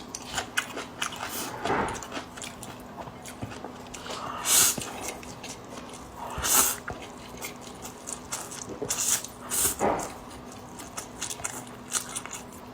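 A person chewing and eating braised noodles with pork and green beans: many small wet mouth clicks and three louder noisy bursts, spread through.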